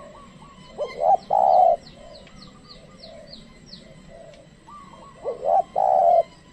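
Spotted dove (tekukur) cooing twice: each phrase is a couple of short notes followed by one long, loud coo. It is a decoy dove's call, used to lure wild spotted doves in.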